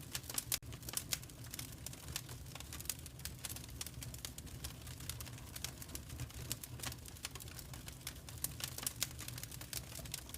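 Wood fire crackling: irregular sharp pops and snaps over a steady low rumble of flame.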